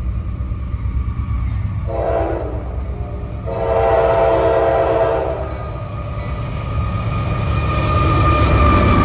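Diesel freight locomotive horn sounding a short blast and then a longer blast of about two seconds over the low rumble of the passing train, the closing short-long of a grade crossing signal.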